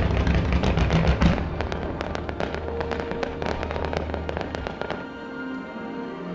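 Aerial fireworks going off in a rapid run of sharp bangs and crackles over the show's music. The bursts and the low rumble under them stop about three-quarters of the way through, leaving the music.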